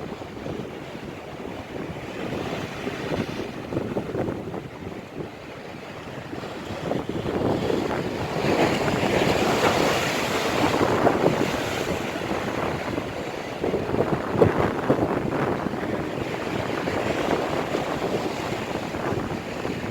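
Stormy sea surf breaking and washing along the shore, with strong wind buffeting the microphone. The surf swells louder about a third of the way through.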